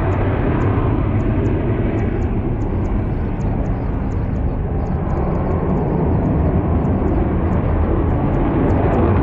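Aircraft engine noise: a loud, steady rumble, mostly low in pitch, that eases slightly midway and swells again near the end.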